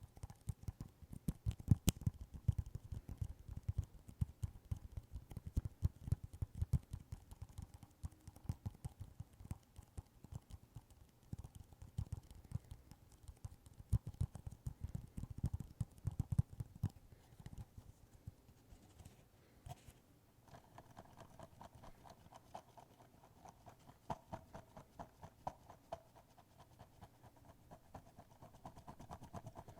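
Rapid close-up tapping and scratching, many small clicks a second, with heavier dull thuds in the first half. About two-thirds of the way in, a steady mid-pitched hum joins the clicking.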